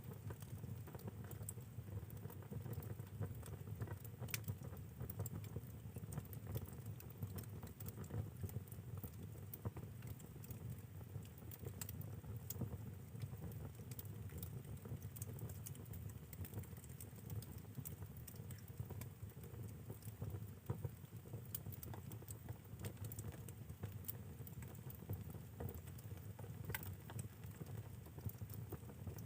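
Firewood burning in a fireplace: irregular crackles and pops over a low, steady rumble of flame.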